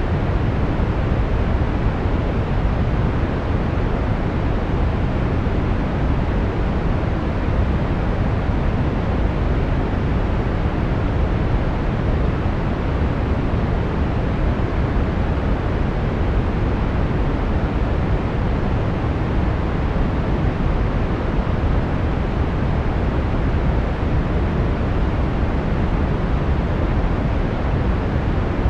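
Steady brown noise: an even, unchanging rumbling hiss with most of its energy in the bass and little in the treble.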